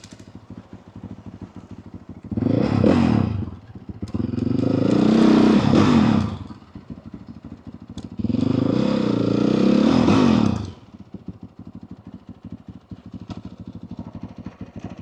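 Motorcycle engine with its stock exhaust, running low between three louder bursts of revs. In each burst the pitch climbs and then falls back, over one to two seconds.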